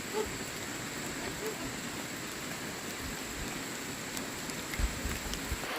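A steady hiss of water, with a few faint short calls and a steady faint high tone in the background. Two low thumps come near the end.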